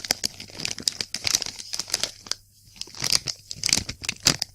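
A Walkers Sunbites crisp packet crinkled and scrunched in the hands: a rapid, irregular run of sharp crackles with a brief lull a little past the middle.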